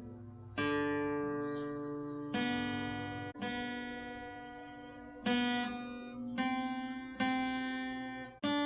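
Acoustic guitar played slowly by a beginner: single strummed chords, one every second or two, each left to ring and fade before the next.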